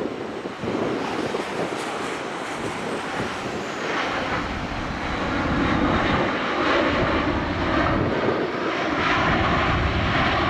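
Boeing 737-800 jet airliner's CFM56-7B engines running as it lands, a steady roar that grows louder about halfway through and stays loud.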